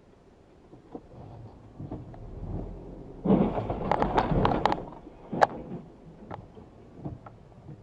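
A vehicle collision: a sudden loud impact about three seconds in, followed by about two seconds of cracking and clattering, then a few scattered knocks as it dies away.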